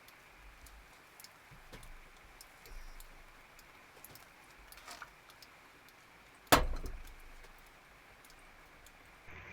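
Light clicks and taps of small objects being handled, then one sharp knock about two-thirds of the way through.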